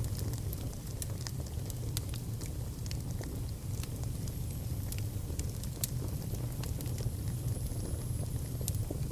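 Wood fire burning in a fireplace, crackling with scattered sharp pops over a steady low rumble, with a faint high whistle now and then.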